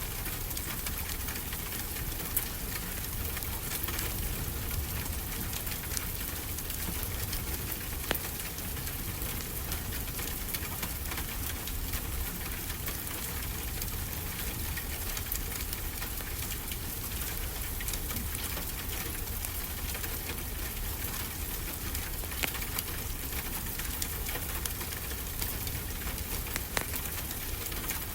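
Steady rain falling in an even hiss with a low rumble underneath, and a few sharp pops from a crackling wood fire now and then.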